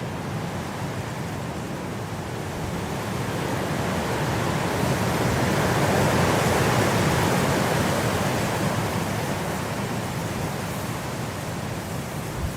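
Blizzard wind blowing, a steady rush of noise that swells into a strong gust around the middle and eases off again.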